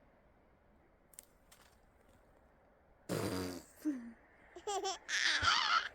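A baby babbling and laughing, with high squealing cries that bend up and down in pitch. It starts about halfway through, after a few seconds of quiet room tone, and the longest, loudest squeal comes near the end.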